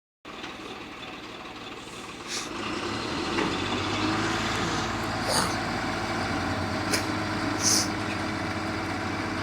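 Diesel truck engine running steadily, growing louder about two to three seconds in, with three short high hisses and a few clicks over it.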